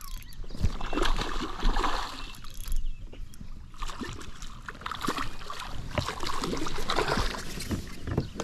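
Irregular splashing and sloshing of water beside a kayak as a hooked bass thrashes at the surface during the fight.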